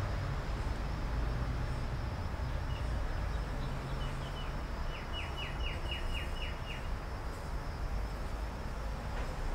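Steady low background rumble and hiss. About halfway through, a bird outside gives a quick series of about eight short, falling chirps.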